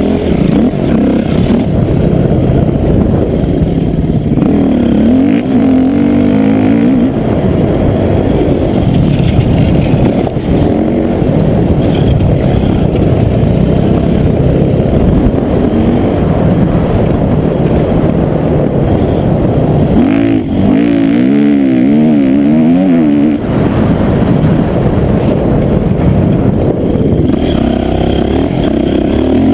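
Motocross dirt bike engine running under load, its pitch rising and falling with the throttle, with stretches of quick up-and-down revving. Loud rumbling noise runs under it.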